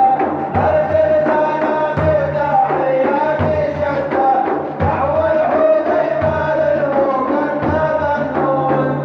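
Arabic devotional praise song (madih): a wavering, ornamented melody over a steady beat of low drum hits.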